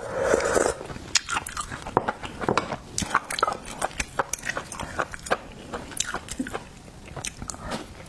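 Close-miked eating of seafood: wet chewing and smacking with many sharp, irregular clicks and crunches. The loudest patch comes right at the start.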